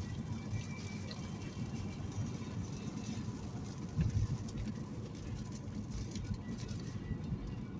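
Steady low rumble of a vehicle on the move, with a brief louder thump about four seconds in.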